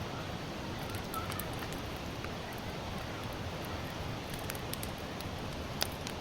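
Wood campfire of sawtooth oak (kunugi) logs burning, with scattered sharp crackles over a steady background hiss and one louder pop near the end.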